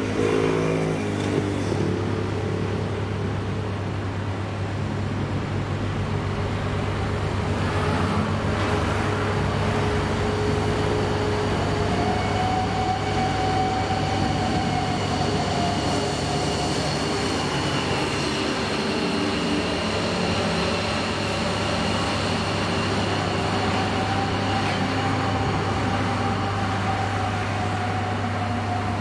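A vehicle's diesel engine running steadily, with a low hum and a few faint, slowly wavering whining tones above it.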